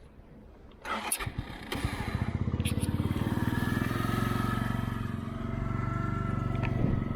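Mash Fifty's 50cc single-overhead-cam single-cylinder engine starts about two seconds in, after a brief knock, and settles into a steady idle.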